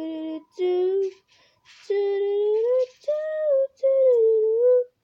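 A young voice singing a wordless tune on "do" syllables: held notes, some sliding up or wavering, with short breaks between them.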